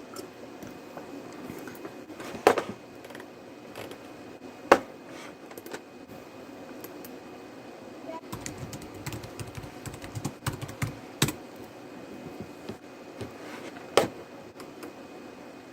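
Irregular light clicking and tapping, with four sharper knocks scattered through.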